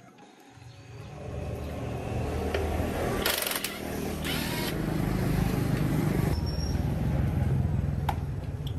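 An engine starting up and running steadily, growing louder over its first second or two, with two short bursts of hiss in the middle.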